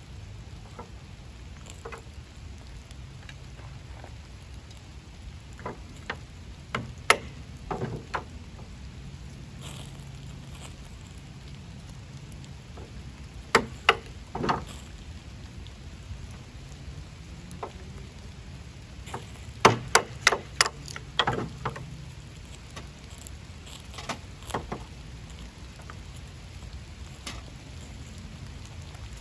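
Light rain pattering steadily, with a few clusters of sharp clicks and knocks from the burning tinder and the sticks being fed into a tin-can hobo stove, the loudest run of them about two-thirds of the way through.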